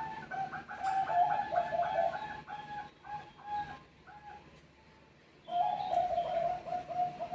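Zebra dove (Bangkok perkutut) cooing: a quick series of short, clipped notes. It pauses about four seconds in, then starts another run.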